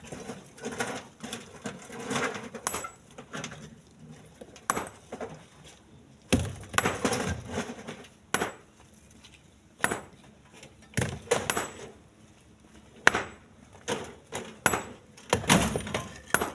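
Split stones being loaded by hand, clattering and knocking hard against one another as they land, in irregular sharp knocks about every second or two.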